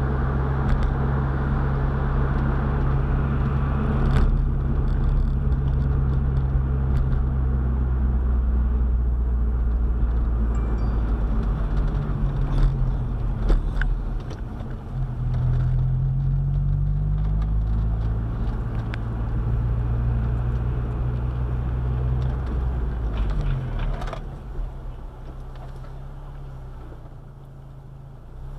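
A car's engine and road noise from inside the moving car, a steady low hum whose pitch shifts and rises for a few seconds near the middle, with a few sharp knocks and clicks. The sound falls away a few seconds before the end as the car eases off.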